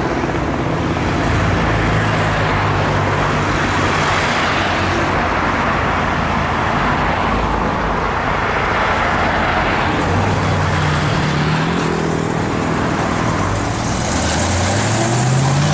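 Car engines running in road traffic, with an engine note rising in pitch as a car accelerates near the end.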